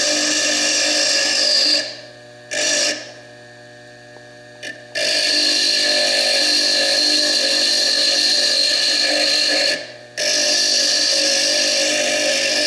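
Foredom bench lathe spinning a coarse burr against fire agate, a steady high-pitched grinding whine. It stops about two seconds in, runs for a moment, then starts again at about five seconds and runs on, with one short break near ten seconds.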